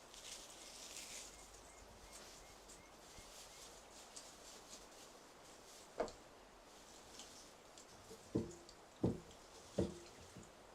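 A single sharp knock about six seconds in, then three louder knocks in quick succession near the end, each with a short ringing note; a faint high rustle in the first couple of seconds.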